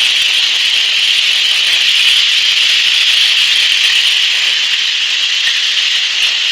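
Floodwater rushing through a collapsing dam: a loud, steady hiss.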